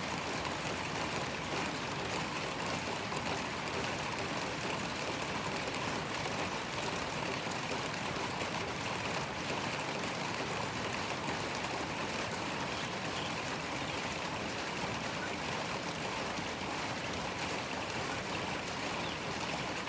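Steady rain falling, an even hiss of many fine drops that holds at one level throughout.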